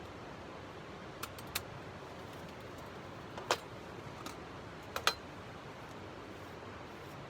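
A few light, sharp clicks and taps over a steady faint hiss, with a quick double click about five seconds in.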